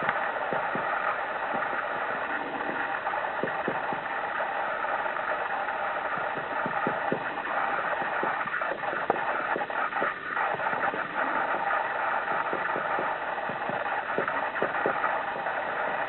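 Woodpecker pecking at wood: irregular single taps and short clusters of knocks, not a fast drumming roll, over a steady background hiss.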